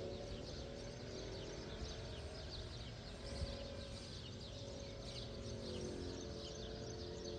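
Birds chirping rapidly in short, quick falling notes, several a second without pause, over a low steady drone.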